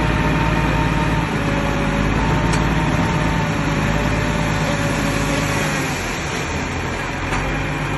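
Bulldozer's heavy diesel engine running steadily, easing off slightly about six seconds in.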